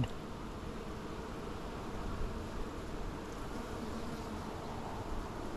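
Honey bees buzzing steadily around an open hive during a frame inspection.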